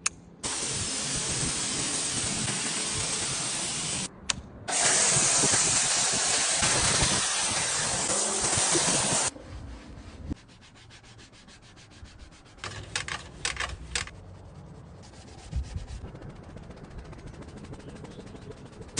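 Spray hissing onto an engine as it is washed and coated with protectant. Two long bursts, stopping briefly about four seconds in, are followed by a quieter stretch with a few short spurts.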